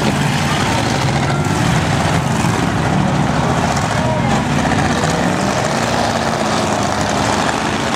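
Several demolition derby cars' engines running at once in a loud, steady din, their pitch shifting as drivers rev, with voices mixed in.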